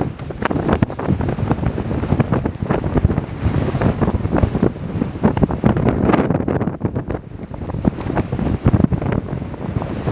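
Strong gusting wind buffeting the microphone: a loud, low rumble that flutters rapidly, easing briefly past the middle before picking up again.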